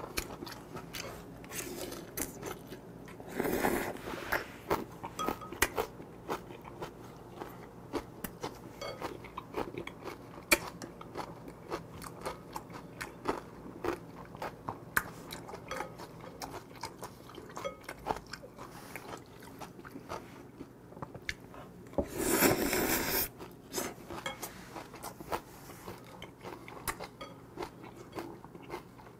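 A man chewing a mouthful of spicy octopus salad with crisp vegetables: wet chewing with many small crunching clicks. Twice, a few seconds in and again about three-quarters through, a louder rushing sound lasts about a second.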